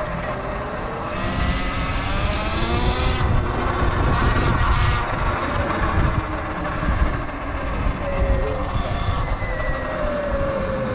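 Electric dirt bike motor on a Sur Ron, whining as it rides. The whine rises in pitch over the first few seconds, then falls and climbs again with speed, over a steady low rush of wind and road noise.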